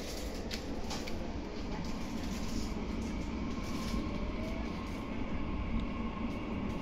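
Meitetsu 9500 series electric train running, a steady rumble of wheels and running gear heard from inside the car, with a faint rising whine about four seconds in.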